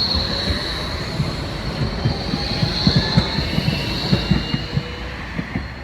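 A tram running on its rails with a high, steady wheel squeal over a quick run of low knocks and rattles. The squeal fades near the end.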